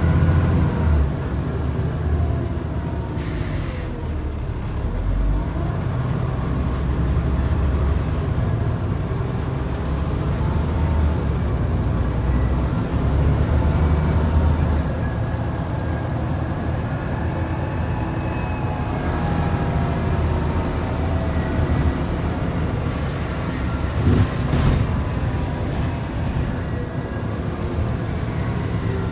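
Scania N94UD double-decker bus's DC9 diesel engine pulling through its automatic gears, its pitch rising and falling as it changes gear. Two short hisses of air come in, a few seconds in and again near the end.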